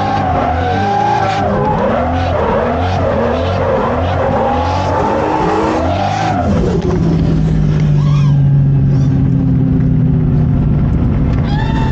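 Toyota Chaser's turbocharged JZ straight-six, heard from inside the cabin, revving up and down hard through a drift, with tires squealing. About six and a half seconds in, the revs fall away and the engine settles to a steady low drone as the car rolls off the throttle.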